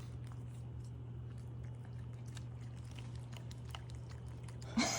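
A cat chewing, faint small clicks over a steady low hum. Near the end a sudden louder voice-like burst breaks in.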